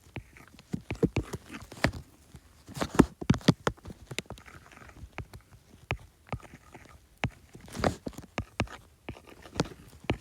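Stylus pen tapping and dragging on an iPad's glass screen while drawing: irregular sharp clicks, some in quick clusters, with faint scratching between them.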